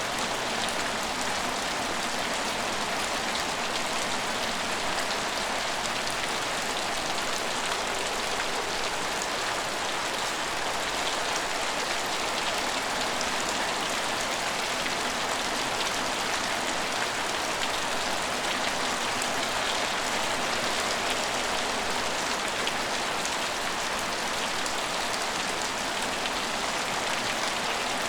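Steady rain falling on a station's roofs and platforms, an even hiss flecked with the fine patter of drops.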